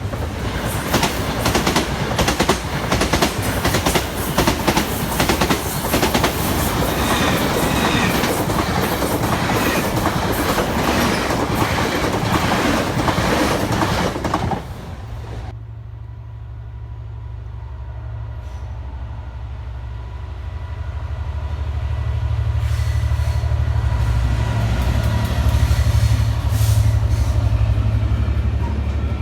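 A train passing close by, its wheels clattering over the rail joints, for about the first half. After an abrupt change, a lower steady hum and rumble of a train that grows louder towards the end.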